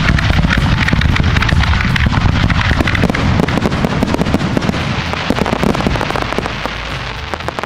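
Fireworks going off in a rapid, dense barrage, many bangs in quick succession with little gap between them, easing off slightly near the end.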